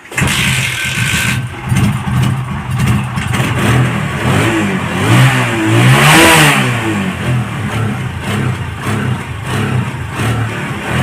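TVS Apache RTR 160's single-cylinder four-stroke engine running on a freshly fitted spark plug after standing unused for a long time. It is revved a few times midway, its pitch rising and falling, then settles back to a steady idle.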